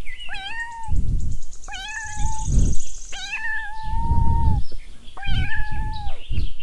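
Kitten meowing four times in high-pitched calls, each lasting about a second and starting with a quick upward slide, with low rumbling noise between the calls.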